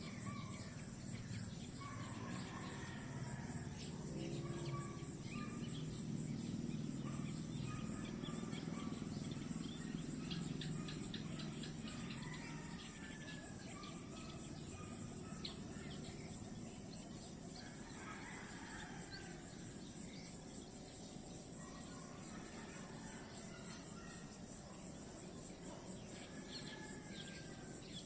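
Natural outdoor ambience: a steady high-pitched chorus of insects, with birds chirping briefly here and there over a low background rumble.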